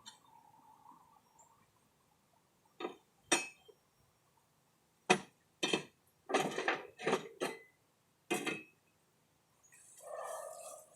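Small metal parts and tools clinking and knocking as they are handled and set down, a run of sharp clinks, some in quick clusters, a few seconds in.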